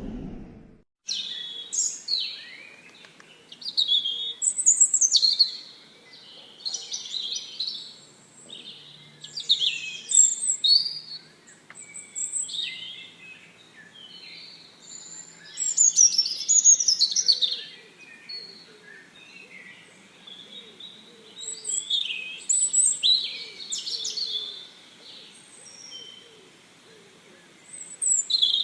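Many small birds chirping and calling over one another, short high-pitched chirps and quick sweeping notes coming in clusters every couple of seconds.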